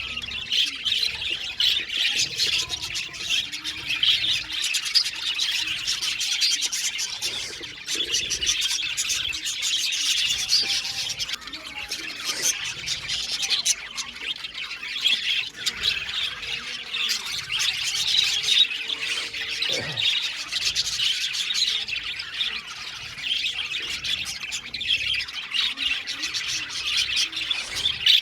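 A flock of budgerigars chattering, chirping and squawking together without a break, many birds calling over one another.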